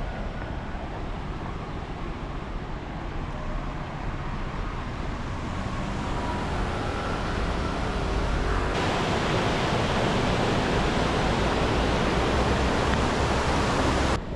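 A steady rushing noise with no distinct events. About nine seconds in it changes abruptly to a louder, brighter hiss.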